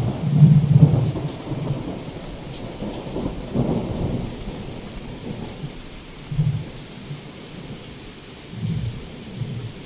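Heavy rain falling steadily with rolling thunder. The rumble is loudest in the first second and dies away, and a few weaker rumbles swell up later.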